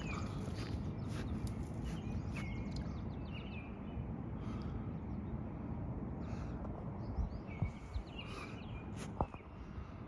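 Small birds chirping, short repeated calls over a steady low rumble, with a few sharp knocks near the end.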